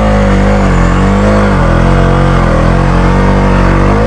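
Motorcycle engine running under changing throttle, its pitch rising and falling every second or so as the bike is ridden over a slippery off-road track.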